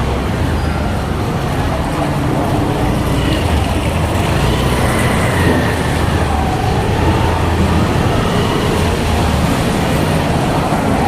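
Steady street noise with a continuous low engine-like rumble, like road traffic.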